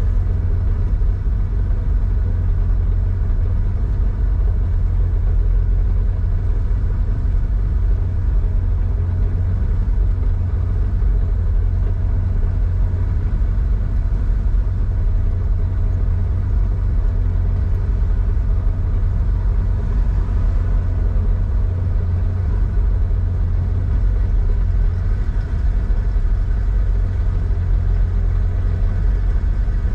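Air-cooled flat-six of a 1987 Porsche 911, enlarged to 3.4 litres, running steadily at an even pace through a Scart two-into-one-out muffler: a steady low rumble with no marked revving.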